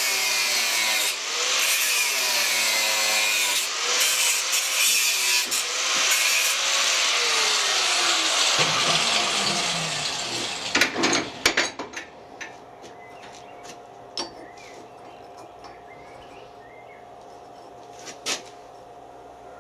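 Power saw cutting through steel plate, its pitch rising and falling as the cut is loaded, then the motor is switched off and winds down. A few sharp metallic knocks follow as the cut piece is handled, with a steady faint hum after.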